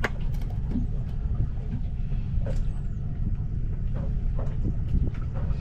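Low steady rumble of the boat's engine running, with a few faint clicks and knocks.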